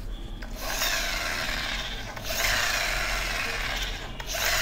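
A toy helicopter whirring in three long rasping strokes as it is run, each with a whine that falls in pitch.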